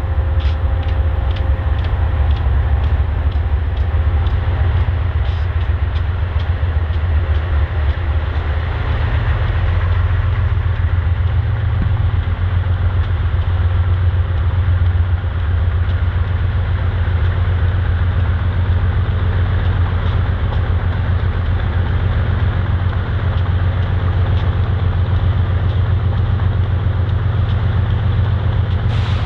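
Diesel-hauled freight train running, with a steady low engine drone. A run of short wheel clicks comes in the first several seconds.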